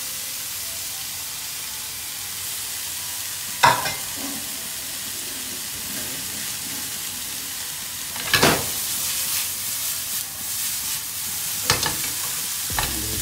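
Chopped garlic, ginger, lemongrass, spring onions and chillies sizzling steadily in hot oil in a frying pan on high heat. A few sharp knocks break in, the loudest about four seconds in.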